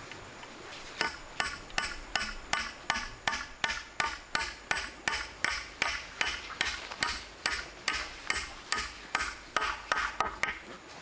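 A tool striking repeatedly in a steady rhythm, about two to three sharp blows a second, each with a short ring. It starts about a second in and stops shortly before the end.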